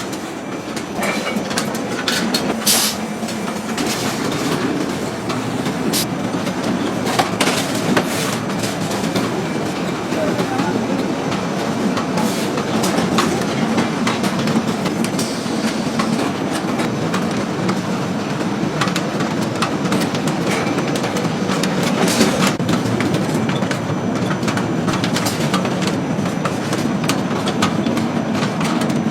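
Computerized sock-knitting machines running: a steady mechanical clatter with sharp clicks now and then.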